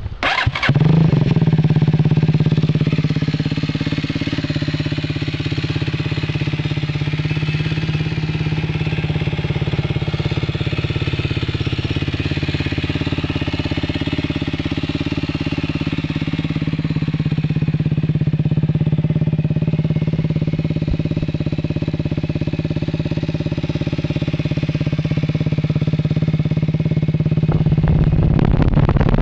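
MZ 125 SM supermoto's 125 cc single-cylinder engine idling steadily through its original exhaust with the silencer emptied, giving a loud, bassy note. It comes in sharply about half a second in and gets slightly louder near the end.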